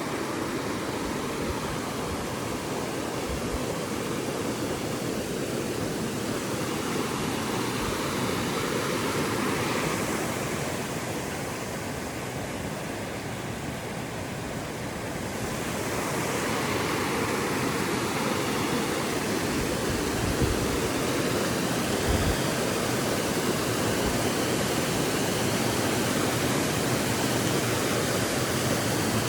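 Creek water rushing over rocks, a steady noise that eases a little about ten seconds in and comes back up after about six seconds.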